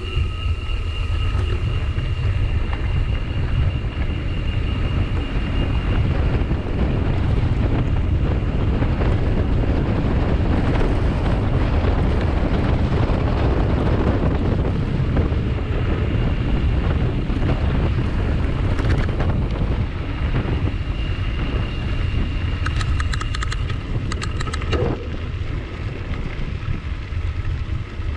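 Wind buffeting the microphone of a camera on a moving bicycle, a steady loud rumble, with a short run of quick clicks near the end.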